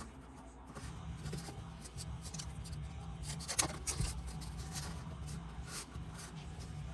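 Cardboard template being handled and fitted: scattered rustles and light knocks, with one sharper click about three and a half seconds in, over a low steady hum.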